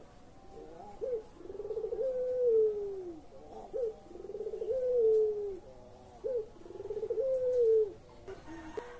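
Puter pelung, a domestic Barbary dove kept for its long coo, cooing three times: each phrase is a short rising note followed by a long rolling coo that falls in pitch.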